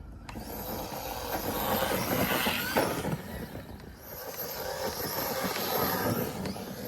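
Arrma Kraton 4S radio-controlled truck driving, its electric motor whining high over the noise of tyres on the ground, the sound rising and falling as it speeds up and slows.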